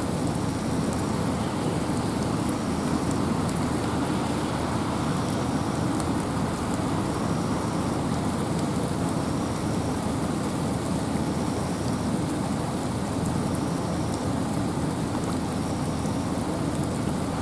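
Steady rain falling in a forest, with wind: an even, unbroken rush of noise that stays level throughout.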